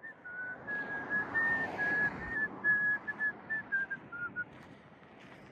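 A person whistling a tune: a run of short, steady notes stepping up and down in pitch, which stops near the end, over outdoor background noise.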